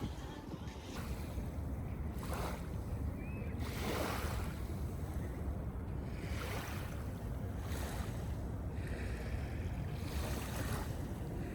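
Small waves washing onto a beach, a wash swelling every couple of seconds, over a steady low rumble of wind on the microphone.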